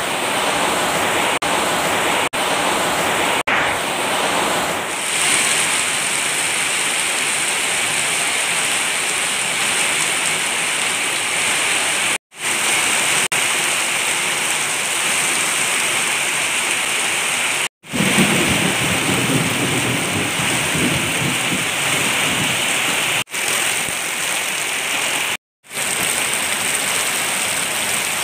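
Heavy tropical downpour: a steady, loud hiss of rain falling on plants and ground, broken by a few abrupt cuts to silence.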